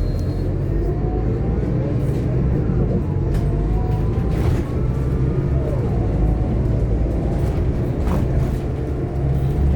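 Scania K230UB OmniLink bus heard from on board while under way: a steady low engine rumble with a drivetrain whine that rises in pitch several times, and occasional short rattles and knocks from the body.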